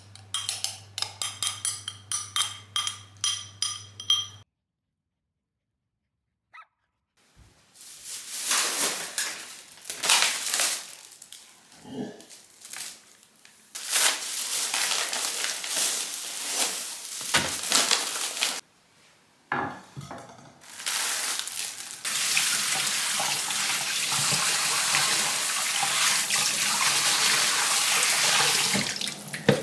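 Running water, steady for the last several seconds, with irregular clatter before it. It opens with a few seconds of regular clicking over a low hum, then a short silence.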